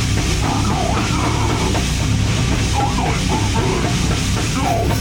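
Heavy hardcore/metal band playing live and loud, with distorted guitars, bass and a drum kit in a dense, unbroken wall of sound.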